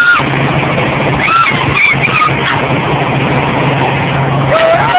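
Helicopter in flight heard from inside the cabin: a loud, steady drone of engine and rotor noise with a low hum underneath.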